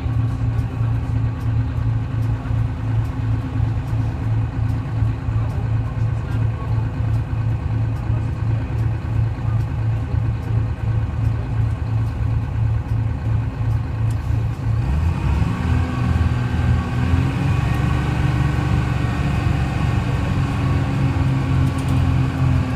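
Detroit Diesel 6V71 two-stroke V6 diesel of a GMC New Look transit bus idling steadily, then revving up as the bus pulls away about two-thirds of the way in, its pitch rising in two steps and holding.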